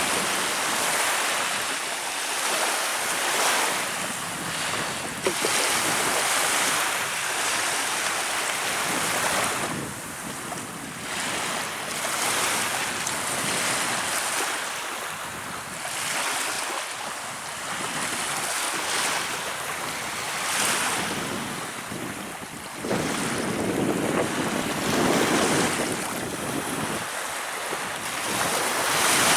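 Baltic Sea waves washing in, swelling and ebbing every few seconds, with wind on the microphone.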